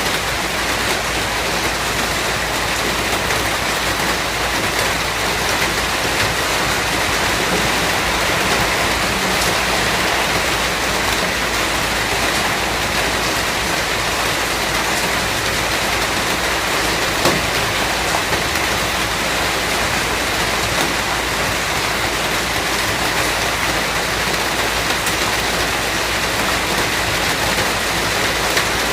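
Steady rain falling: an even hiss with a few scattered single drop ticks.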